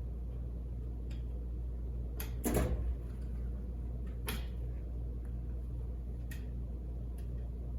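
A few sharp clicks and knocks over a steady low machine hum; the loudest, a short clatter, comes about two and a half seconds in.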